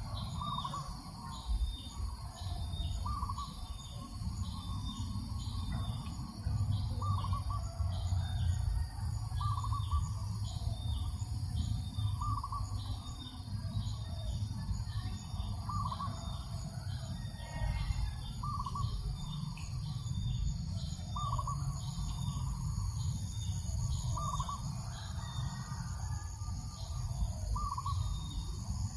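Birds calling: one repeats a short high call about one and a half times a second, while another gives a lower call every two to three seconds. Under them run a steady high insect buzz and the low, uneven rumble of breeze on the microphone.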